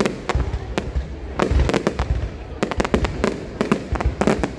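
Aerial fireworks going off in quick, irregular volleys of sharp bangs and crackles, with deep booms underneath.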